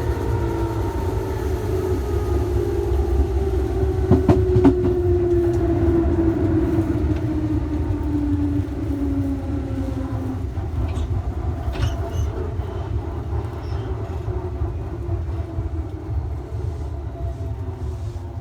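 Electric train slowing down: its traction motor whine falls steadily in pitch over a constant low running rumble, with a few sharp clicks about four seconds in and again near twelve seconds.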